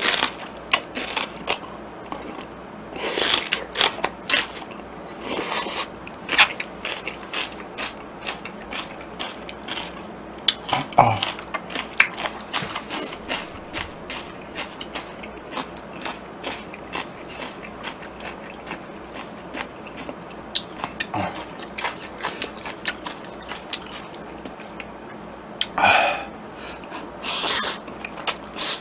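Close-miked chewing of crunchy yeolmu kimchi (young radish kimchi), a steady run of sharp crackling clicks. A few wet slurps break in, the loudest near the end from jjajangmyeon noodles being slurped.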